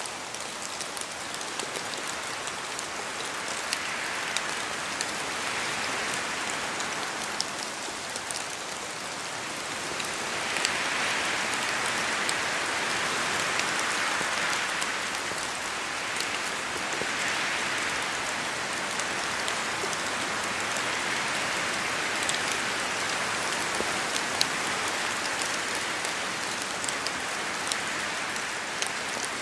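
Steady rain in a forest, with many separate drops falling from the trees and striking leaves, and gusts of wind swelling and easing through the canopy every few seconds.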